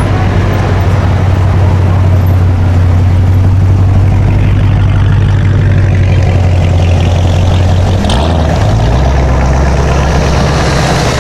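A vehicle engine running steadily with a loud low hum; about eight seconds in its pitch drops lower, as the revs fall.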